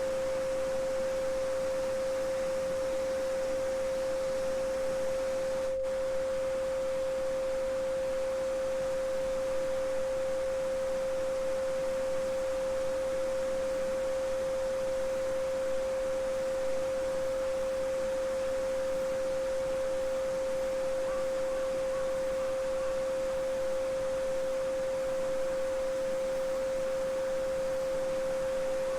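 Steady 528 Hz solfeggio sine tone, one pure unchanging pitch, over a faint, even babbling of a small brook.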